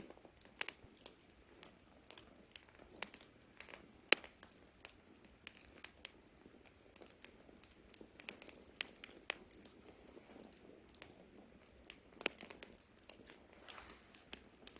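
Campfire crackling: irregular sharp pops and snaps over a soft, steady hiss, a few of the pops much louder than the rest.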